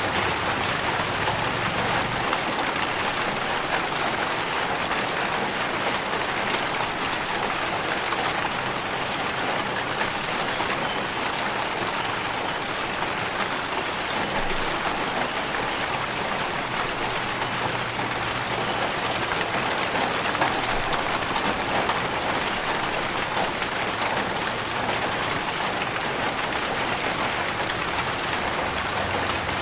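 Steady rain falling: a dense, even patter of drops that holds at the same level throughout.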